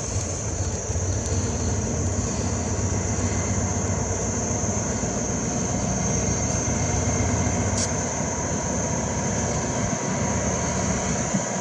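Diesel train engine running steadily: a low, even drone with a thin, steady high whine above it.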